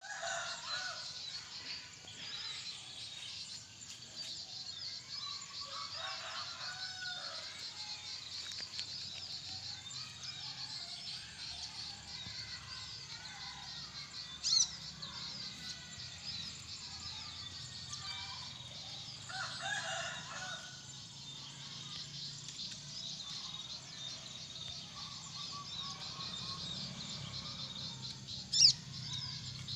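Birds chirping and calling without pause, a dense high twittering with scattered lower calls over it. Two brief, sharp, louder sounds stand out, about halfway through and near the end.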